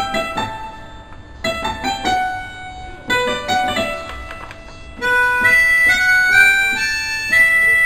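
Electronic keyboard being played to try out its sounds. A run of short piano-voice notes is followed, about five seconds in, by longer held notes.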